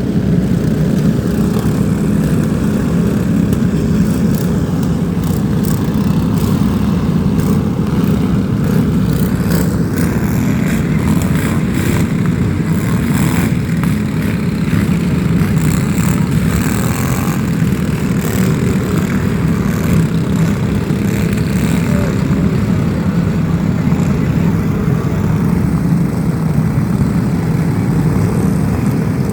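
An engine running steadily with a loud, constant drone, with scattered light clicks and rattles over it through the middle.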